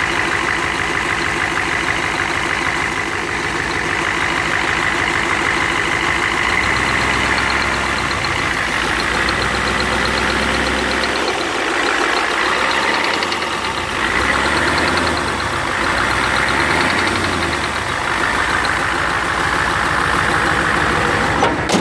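Turbocharged vehicle engine running, with a steady high whine over it; its speed rises and falls several times in the middle. The owner is listening to the whine for a failing turbo.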